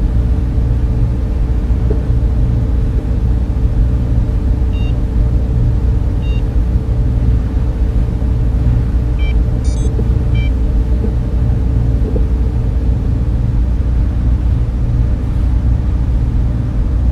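Data center server fans and cooling equipment running, a steady low rumble with a constant hum tone. A few faint, short high chirps come through around the middle.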